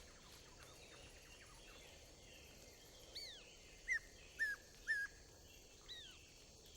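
Faint outdoor background with a series of short bird calls about halfway through. There are about five quick, high whistled notes, each dropping in pitch.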